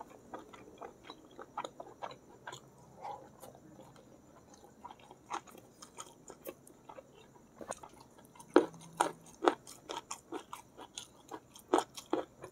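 Close-miked chewing of squid balado and rice, with wet mouth clicks and smacks, getting sharper and louder in the second half.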